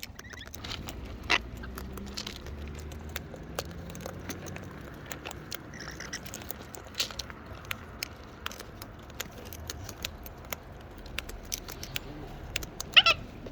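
Cockatoos feeding, with irregular sharp clicks, taps and scrapes of beaks and claws working at the food and the bucket.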